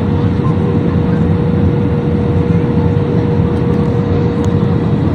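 Steady jet airliner cabin noise: engine and airflow noise, low and even, with a constant hum tone running through it.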